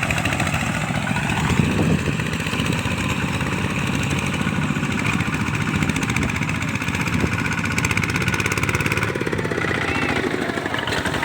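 Kubota walking tractors' single-cylinder diesel engines running steadily while plowing, with a rapid, even chugging.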